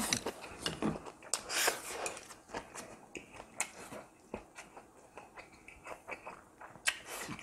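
A person chewing food close to the microphone: irregular wet mouth clicks and smacks, loudest in the first two seconds and again near the end.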